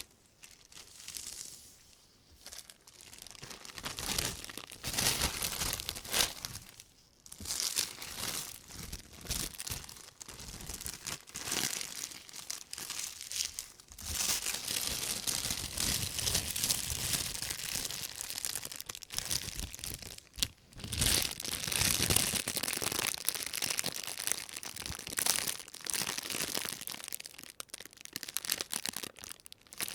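Thin white plastic shopping bag of the convenience-store kind rustling and crinkling as rubber-gloved hands handle it. The rustles come in irregular spells with short pauses between them, and become nearly continuous about halfway through.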